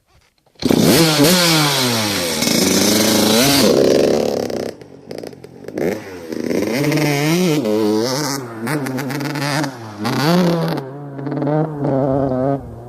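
Yamaha YZ85 two-stroke dirt bike engine revving. It comes in suddenly about half a second in, its pitch swings up and down, then it settles to a steady idle broken by several short, sharp rev blips.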